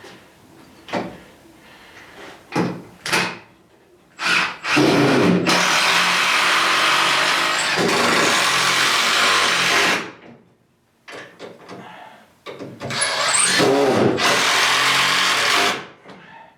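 Power drill running in wood in two long runs, the first about five seconds and the second about three, with a few knocks of boards being handled before them.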